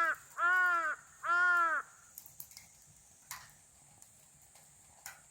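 A crow cawing three times in quick succession, each caw a short arched call. A few faint clicks follow.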